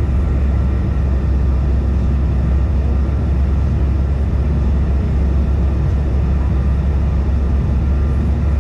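Steady cabin noise inside a Bombardier CRJ-550 regional jet in flight: a deep, even rumble of airflow and rear-mounted General Electric CF34 turbofans, with a faint steady engine whine above it.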